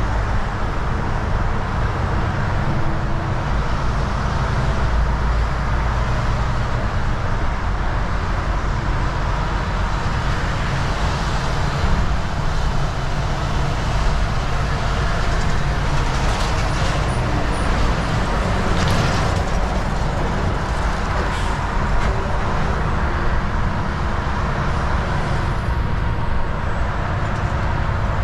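Volvo VNL 760 semi truck driving at highway speed: steady engine and road rumble.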